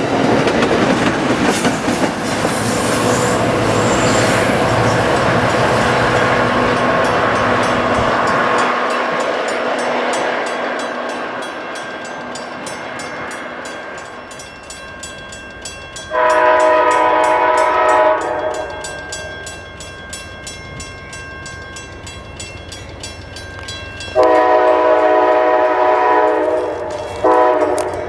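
A train running past close by, its wheel and rail noise fading away over the first dozen seconds. A locomotive air horn then blows a several-note blast of about two seconds, and later a longer blast that breaks off briefly and sounds again near the end.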